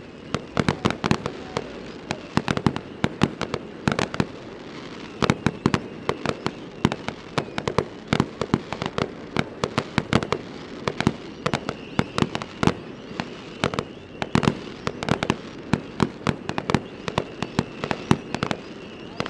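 Fireworks bursting in rapid, irregular succession, with several sharp bangs a second and short lulls about four seconds in and again near fourteen seconds.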